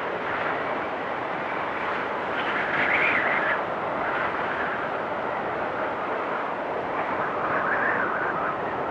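Storm wind blowing steadily, swelling in two stronger, higher gusts: one about three seconds in and another near the end.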